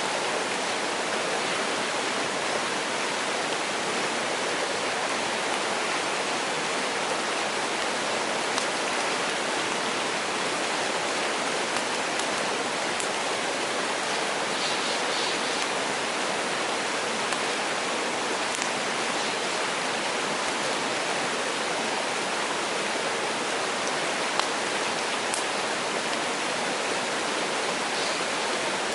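Mountain stream rushing steadily, with a few faint, sharp pops from a wood fire crackling now and then.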